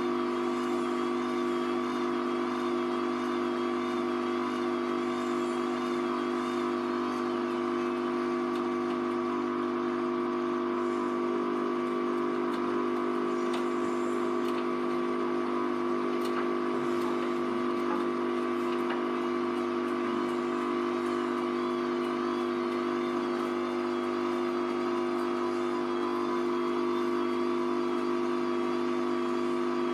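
Hoover Vision Tech VT 914 D22X washing machine running mid-cycle on a 40°C mixed wash, its motor giving a steady whine that holds at an even pitch and level throughout.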